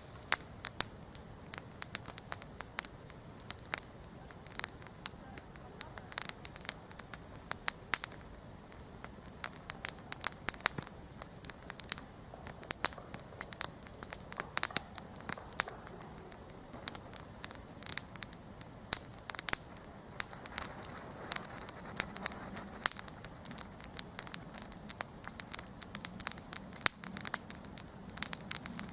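Wood campfire burning, with many irregular sharp pops and snaps of crackling wood over a soft steady hiss of the flames.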